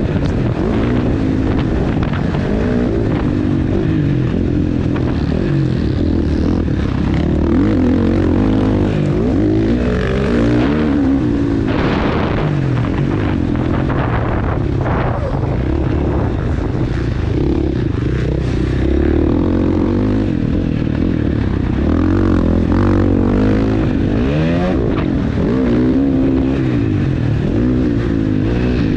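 KTM 450 four-stroke single-cylinder dirt bike engine ridden hard around a motocross track, its revs repeatedly rising and falling through the throttle and gear changes.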